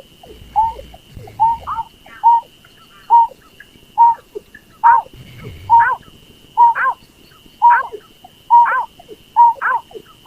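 Snipe (berkik) lure calls: short, sharp calls, some rising and falling in pitch, repeated about every three-quarters of a second. A thin steady high tone runs behind them.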